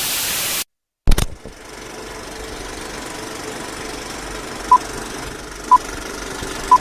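A brief burst of static, a sharp click, then a big-rig's diesel engine idling steadily. Near the end come three short beeps about a second apart.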